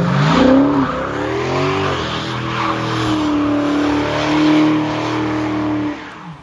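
Dodge Challenger V8 revving up hard twice in quick succession, then held at high revs with a loud rushing hiss over it. The engine note falls away near the end.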